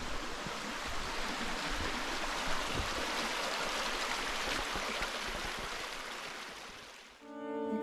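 Rushing water, a steady dense hiss that fades away just before the end. Acoustic guitar music comes in during the last half second.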